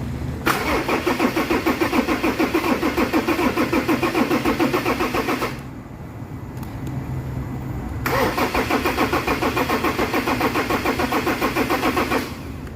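Ford Ranger 3.2 five-cylinder diesel being cranked by its starter motor in two attempts of about five and four seconds. It gives a fast, even chugging and does not catch: the engine won't start.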